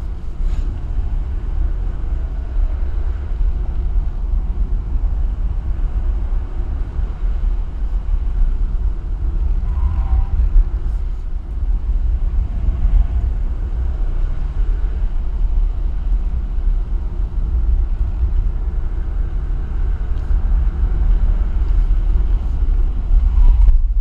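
Alfa Romeo chase car driving along, a steady low rumble of road and wind noise with faint engine notes that rise and fall.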